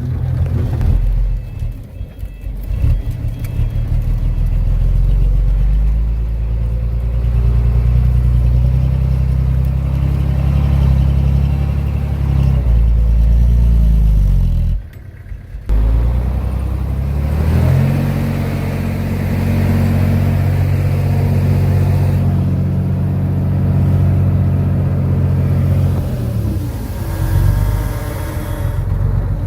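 Diesel engine of a Komatsu D31P bulldozer working under load, its pitch rising and falling as it pushes. There is a sudden short drop in sound about halfway through.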